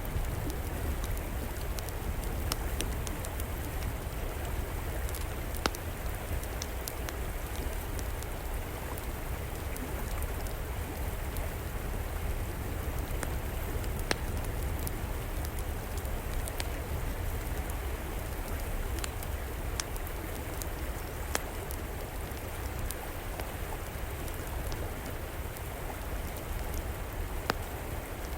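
River water flowing with a steady rush, under a fireplace fire crackling with scattered sharp pops.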